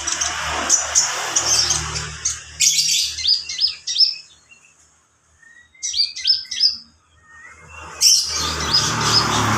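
Kolibri ninja (a sunbird) singing: rapid strings of high-pitched chirps and twittering phrases with two short pauses, over a rushing background noise at the start and again near the end.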